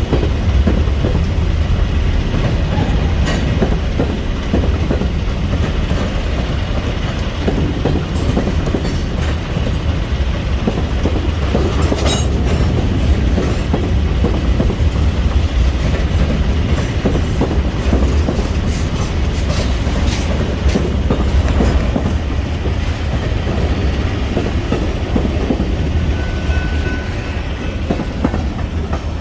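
Freight train rolling past, its wheels clicking over the rail joints above a steady low rumble, with a few sharp metallic clicks along the way.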